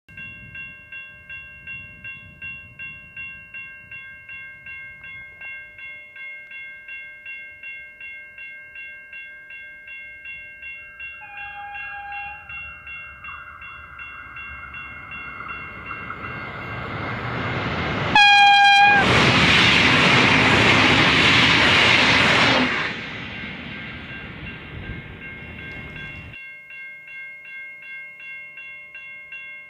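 A V/Line VLocity diesel multiple unit approaches at speed, sounding a faint short horn note in the distance partway through. As it draws near, it gives a loud, brief horn blast. About four seconds of loud wheel and wind noise follow as it passes, then fade away.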